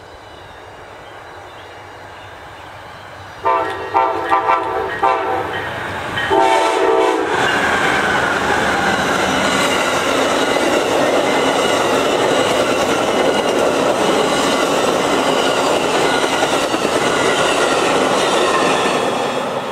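Train horn sounding a chord in a few short blasts, then a longer one, as a train closes in. The train then passes with loud, steady wheel-on-rail rolling noise and clickety-clack, fading near the end.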